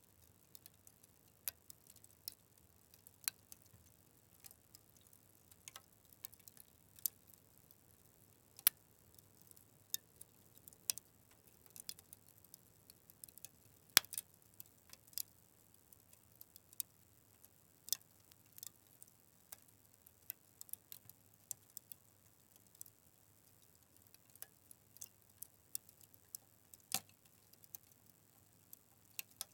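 Fire crackling: irregular sharp pops and snaps over a faint hiss, the loudest pop about halfway through.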